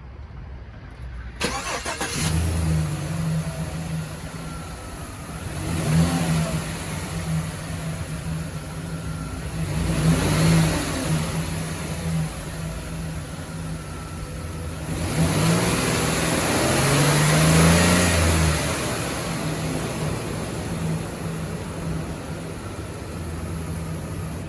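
Chevrolet Express 2500 van engine cranked by the starter and catching about a second and a half in, then idling. It is revved several times: a quick rev around six seconds, another around ten, and a longer rev near the middle-to-late part, each time falling back to a steady idle.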